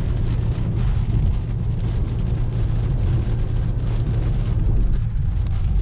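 Car driving on storm-wet roads, heard from inside the cabin: a steady low rumble of engine and tyres with a faint hiss.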